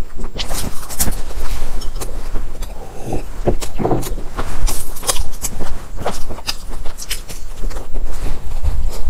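Close-miked chewing of crisp, flaky Chinese pastry with black sesame, many irregular sharp crunches and crackles.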